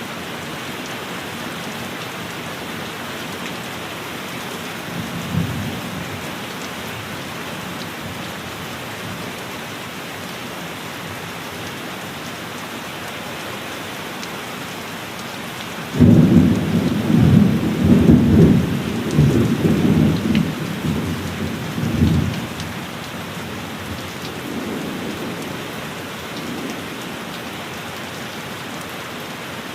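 Steady heavy rain with thunder: a brief low rumble about five seconds in, then a loud thunderclap about halfway through that starts suddenly and rolls for about six seconds before dying away, followed by a fainter rumble.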